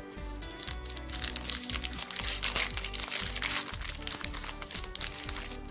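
Foil booster-pack wrapper crinkling as it is handled and torn open, loudest in the middle, over background music.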